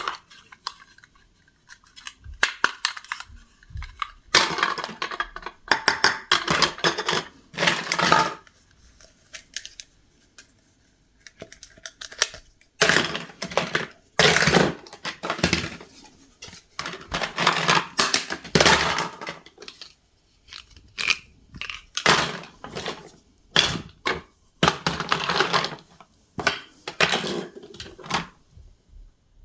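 Small plastic toy kitchen pieces being handled and cut apart, clattering, clicking and crackling in irregular bursts with short pauses between them.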